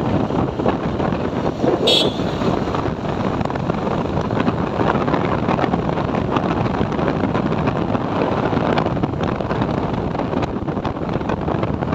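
TVS Apache 4V motorcycle running on the move, with wind buffeting the microphone. A short horn beep sounds about two seconds in.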